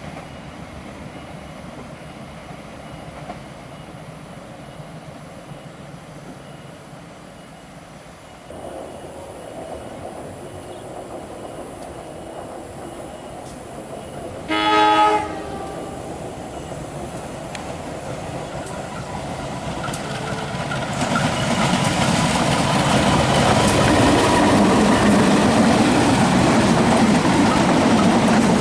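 Train running on the rails with a steady low rumble; about halfway through a locomotive horn gives one short blast. Then the sound of train wheels on the track grows louder and stays loud to the end, as a train comes close.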